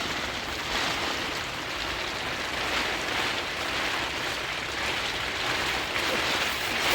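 Heavy rain falling on a tent, a steady hiss that swells and eases.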